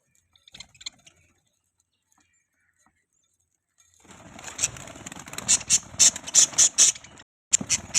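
Budgies giving harsh, scratchy chattering calls in a rapid run of pulses that starts about halfway and breaks off, with a few more near the end.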